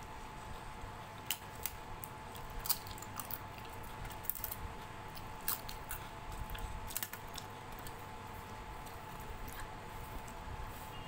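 Wet, close-up chewing and mouth sounds of a person eating soft khichdi by hand, with a scatter of sharp little clicks and smacks through the first seven seconds or so.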